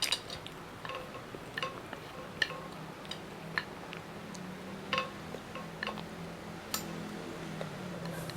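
Cutlery clinking and tapping against a plate: about a dozen sharp, irregular clicks, several ringing briefly.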